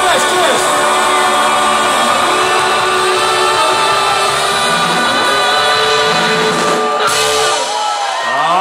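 Live rock and roll band playing a long held chord with guitar and vocal. The band stops about seven and a half seconds in, and voices whoop near the end.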